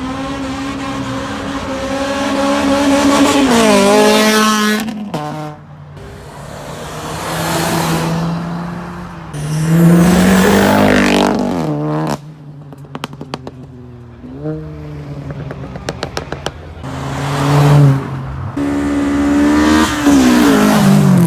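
Several cars accelerating hard one after another, each engine revving up and dropping in pitch at the gear changes, with a burst of rapid exhaust crackling about midway.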